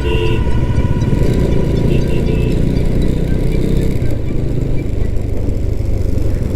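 Cruiser motorcycle being ridden, a steady low rumble of engine and road noise on the rider's camera microphone.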